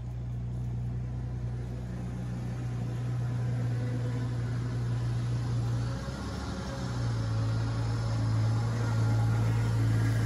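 Engine of an old Jeep running as it drives slowly closer, growing steadily louder, with a brief drop in the engine note about six seconds in.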